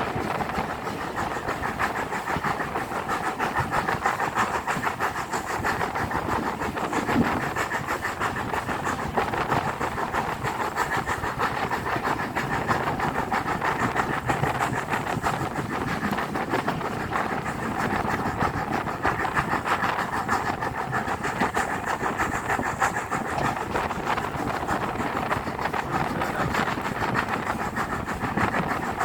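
Steady running noise of a passenger train hauled by a 4F steam locomotive, heard from on board: wheels on the rails and the moving train, unbroken throughout.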